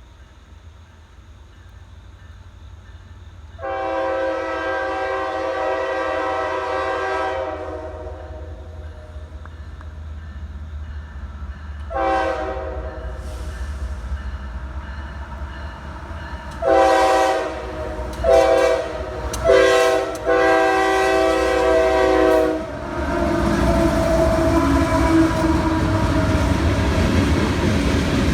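A CSX freight locomotive's multi-chime air horn blows a series of blasts: a long one, then shorter ones, then a long closing blast. The rumble and clatter of the train then rise as the locomotives come up and pass close by.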